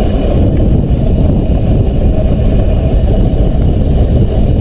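Dirt bike running, a loud steady low rumble.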